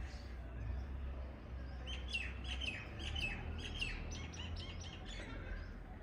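Small songbirds chirping: a quick run of short, falling chirps, about four a second, starting about two seconds in and lasting some three seconds, over a low steady rumble.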